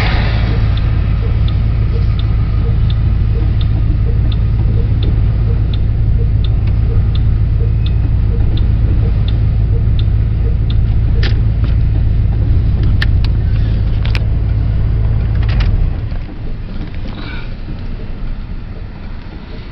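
Low, steady rumble of a vehicle idling, heard from inside its cab, while a double-stack container freight train rolls past. A light regular ticking, a bit more than once a second, fades out about halfway. The rumble stops abruptly about 16 seconds in, leaving the quieter rolling of the train's cars.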